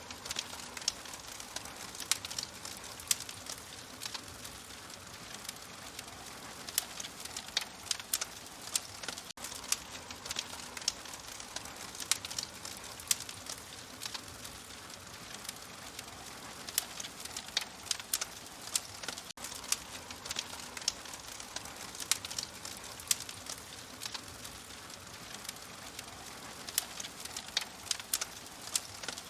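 Wood fire crackling in a fireplace: frequent irregular sharp pops and snaps over a soft, steady hiss.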